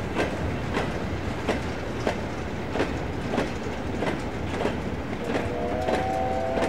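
Loose-coupled train of steel mineral wagons rolling past, its wheels knocking over the rail joints in a steady clickety-clack of roughly one and a half knocks a second. A thin squealing tone joins in about five seconds in.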